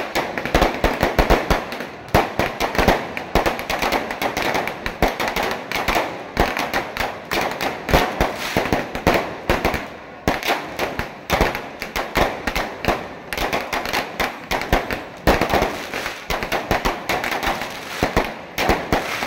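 Strings of firecrackers going off in a dense, rapid, irregular crackle of sharp bangs.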